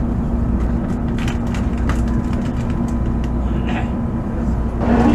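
Steady low rumble and hum of a Shinkansen bullet train heard from inside the passenger car as it runs into the station, with a steady low tone under it. Near the end it gives way abruptly to louder, busier noise.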